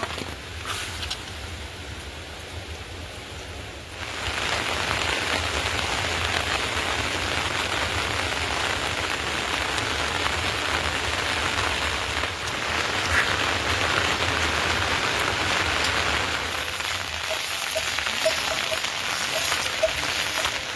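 Steady rain falling, an even hiss that gets louder about four seconds in.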